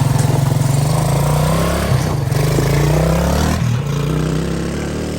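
Kawasaki three-wheeler's small engine running just after catching, revving unevenly, then easing off about three and a half seconds in.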